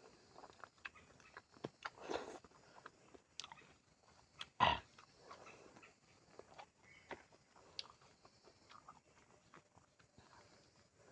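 A person chewing jackfruit flesh close to the microphone: soft wet mouth clicks throughout, with two louder noisy bursts about two seconds in and just before the five-second mark.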